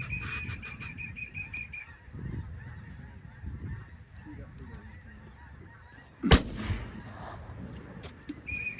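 A rapid run of high, evenly pulsed honking calls stops about two seconds in. About six seconds in comes a single loud shotgun shot, the loudest sound here. The honking starts up again near the end.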